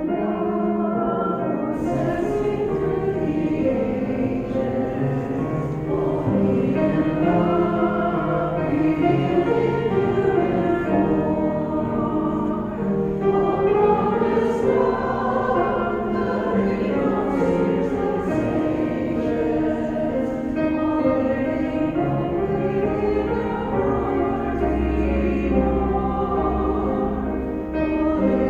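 Choir or congregation singing a church hymn together, with piano accompaniment.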